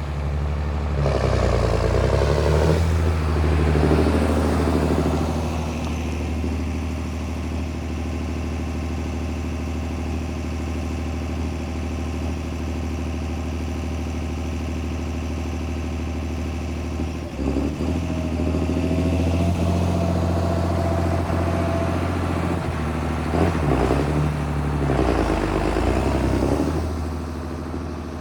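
John Deere 8220 tractor's diesel engine running steadily, its revs rising and falling three times: a couple of seconds in, from about seventeen seconds in with a whine that holds for several seconds, and again a few seconds before the end.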